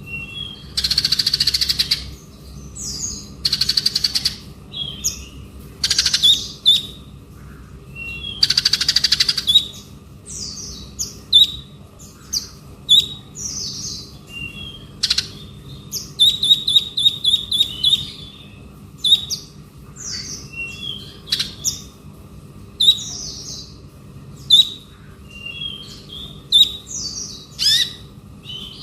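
A male konin bird singing a long, varied chattering song: short chirps and whistled notes, several harsh buzzy rasps lasting a second or two in the first half, and a rapid run of repeated notes about halfway through. A faint steady hum sits underneath.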